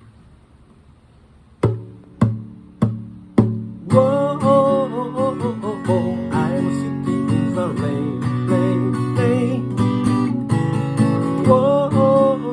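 Acoustic guitar intro: after a short quiet, four single struck chords about half a second apart, then steady strumming with a wavering melody line over the chords.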